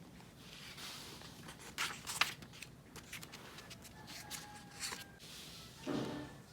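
Faint scrapes and taps of small objects being handled, with a few short sharper clicks.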